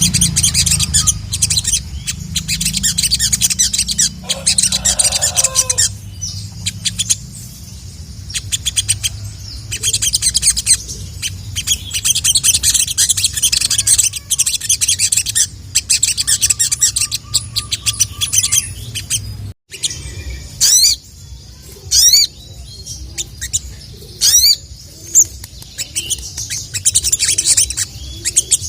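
A sogon (sogok ontong), a sunbird, singing loudly in a rapid, high-pitched chattering run of 'cuit cuit' chirps in bursts with short pauses. After a break about two-thirds through come sparser calls with a few fast rising whistles. A low hum lies under the first part.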